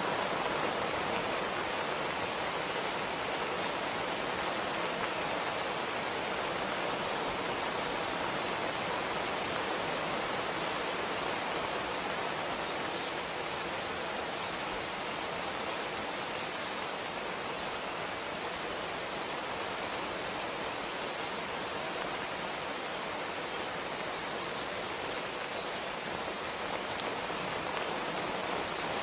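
Steady, even rain, a constant hiss that never lets up. From about halfway through, a few faint, short, high bird chirps sound above it.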